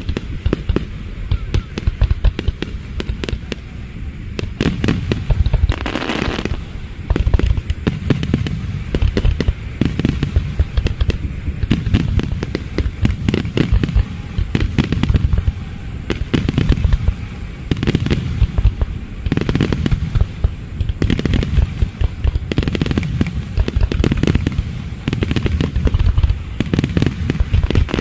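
Aerial fireworks display: shell bursts going off in quick succession, several bangs a second, with patches of dense crackling.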